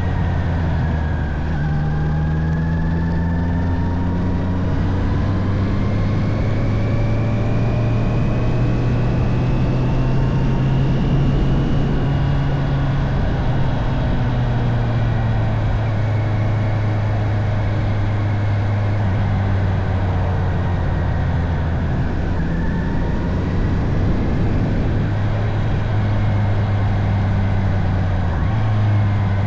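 Honda CB650R inline-four engine running while under way, with wind and road noise. Its pitch climbs slowly over the first ten seconds or so, then eases off and holds fairly steady.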